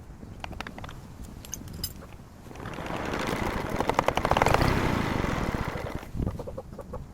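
An engine with a fast, even beat swells up for about three seconds in the middle and dies away again. Hens cluck near the end.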